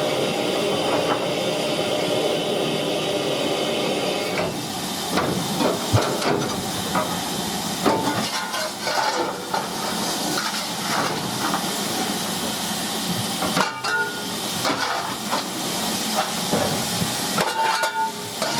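Steam locomotive hissing steam. For the first four seconds or so a steady sound with several held tones runs over the hiss. After that come scattered, irregular clanks and knocks.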